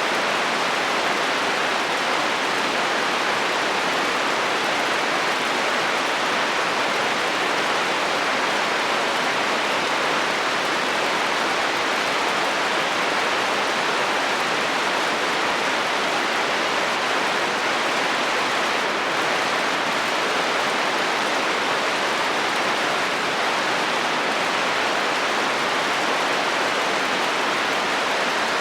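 Heavy rain falling on a metal roof: a steady, even hiss with no breaks.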